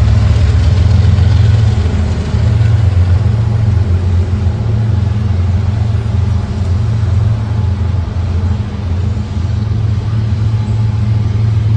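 Diesel locomotive engine running with a steady, loud low rumble.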